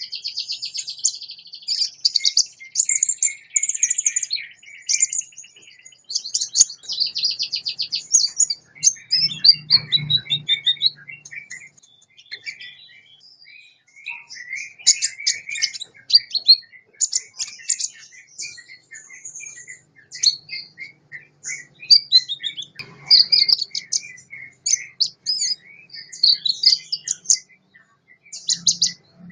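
Sunbird (Indonesian 'kolibri') singing: a fast, busy stream of high chirps, twitters and rapid trills with brief pauses. A faint low hum comes in twice under the song, about a third and two-thirds of the way through.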